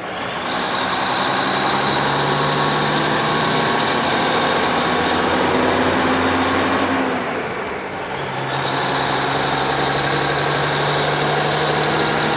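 Semi truck's diesel engine pulling, heard from inside the cab, with a steady high whine over it. The engine note drops briefly as the transmission shifts at the start and again about seven and a half seconds in, then picks back up.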